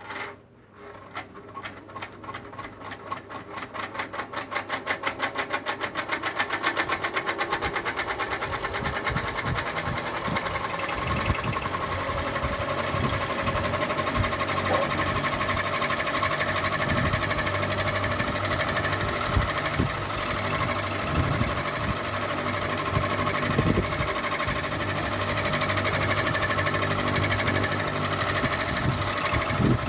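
Ceiling fan switched on with a click and spinning up, with a rhythmic ticking that speeds up over the first several seconds, then running steadily with a fast, even rattle and hum.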